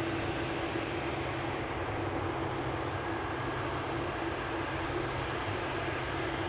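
Jet engines of a Boeing 747-8F freighter (GE GEnx-2B67 turbofans) running: a steady rushing noise with a held hum-like tone, even in level throughout.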